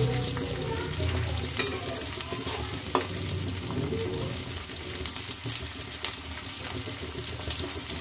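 Chopped garlic and ginger sizzling in hot oil in a kadai, stirred with a spatula that knocks sharply against the pan a few times.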